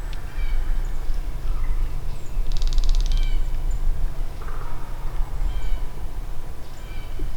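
Wild birds calling in spring bottomland woods: short pitched calls repeated throughout, with a fast rattle about two and a half seconds in, over a steady low rumble.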